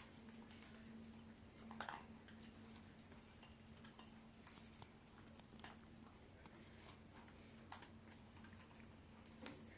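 Near silence: a faint steady hum with a few soft, scattered clicks and ticks.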